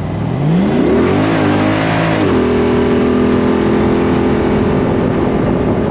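Engine revving: it climbs in pitch over about a second, wavers, then steps up at about two seconds in and holds at a steady speed.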